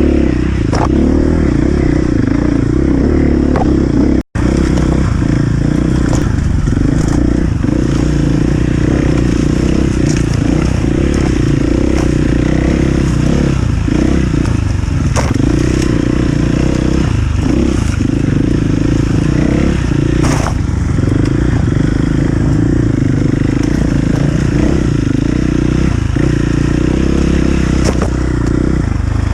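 Enduro motorcycle engine running hard off-road, with scattered clatters and knocks over the terrain. The sound cuts out for an instant about four seconds in.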